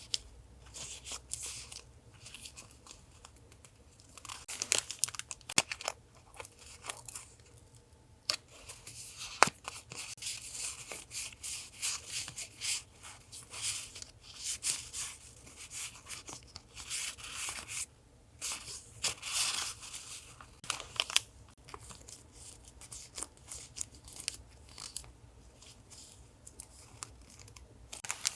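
Paper stickers and their packaging being handled: irregular crinkling, rustling and tearing, with sharp clicks and snaps throughout.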